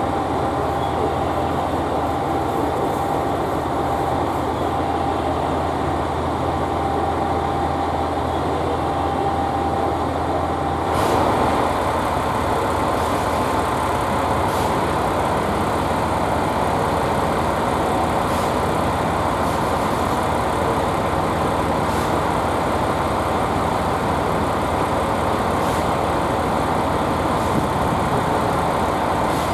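Diesel engines of KiHa 47 railcars running steadily at idle, with a faint steady tone over the drone. About eleven seconds in the tone stops and the engine sound grows a little louder and fuller.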